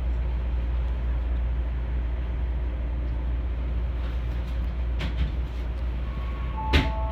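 Keisei 3000-series electric train with a steady low hum and rumble. Near the end come a sharp click and several steady tones.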